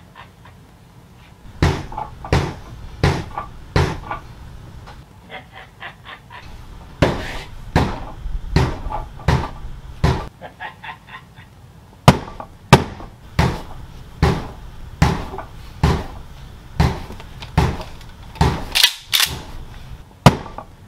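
A series of sharp clacks or knocks at a steady pace, about one every three-quarters of a second, in three runs with short pauses between them and faint quicker ticking in the gaps.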